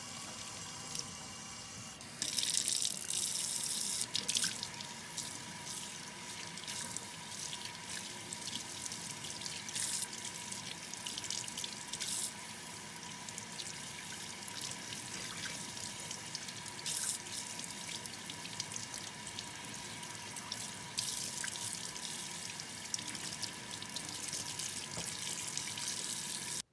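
Water running from a tap into a sink as soapy doll hair is rinsed under it, the flow getting louder about two seconds in, with a few brief louder splashes.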